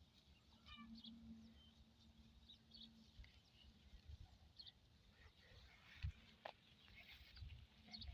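Faint, scattered chirps of small birds over a low rumble, with a couple of sharp knocks about six seconds in.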